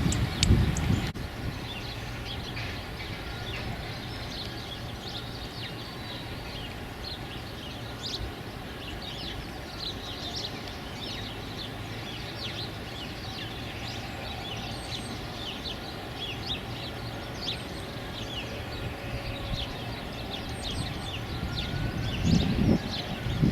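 Small birds chirping and twittering, a steady stream of quick, short, high calls. Wind gusts on the microphone in the first second and again near the end, over a faint low hum.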